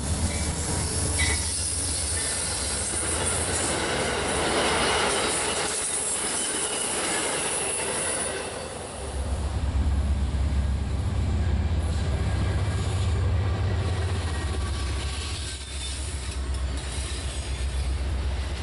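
Freight train of steel tank cars rolling on the rails, wheels running over the track with a rushing, high-pitched noise. About halfway through, the tank cars near the track come to a stop and a deep low rumble takes over, from a second train passing on the far track.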